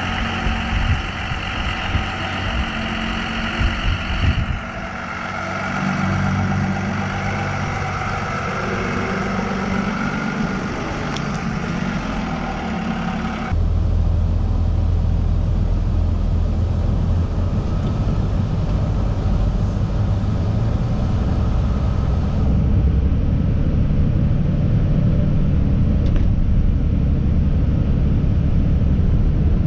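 1994 Dodge 3500 service truck's engine idling steadily. Its tone shifts abruptly about four, thirteen and twenty-two seconds in, turning deeper and heavier in the second half.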